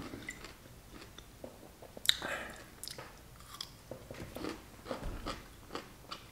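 Close-up crunching and chewing of pickle spears: a sharp crunchy bite about two seconds in, then repeated small crunches as the pickle is chewed.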